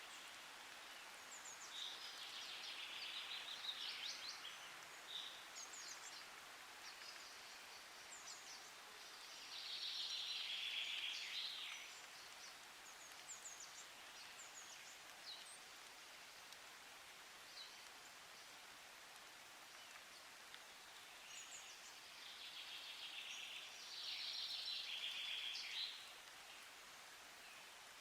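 A small songbird singing three bright, rapid phrases of about two to three seconds each, with short high chirps scattered between them, over a faint steady outdoor hiss.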